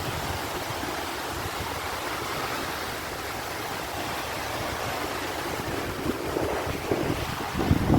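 Strong wind and surf at a beach at high tide: a steady rushing noise. Near the end, gusts of wind buffet the microphone.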